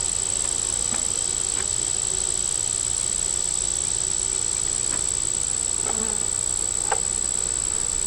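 Honey bees buzzing around an opened hive, over a steady high-pitched insect drone, with a couple of faint taps.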